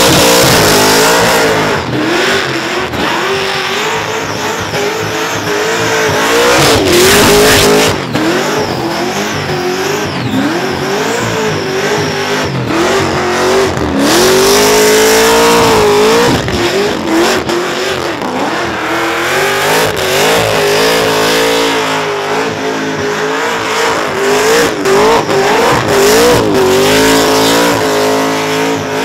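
Supercharged Holden Commodore burnout car's engine held at high revs, the revs swinging up and down over and over as the throttle is worked. The rear tyres spin and squeal on the pad underneath.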